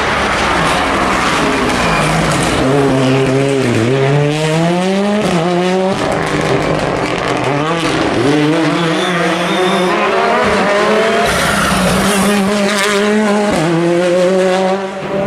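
Rally car engine revving hard, its pitch climbing and dropping again and again as it shifts up and down through the gears, with tyres squealing.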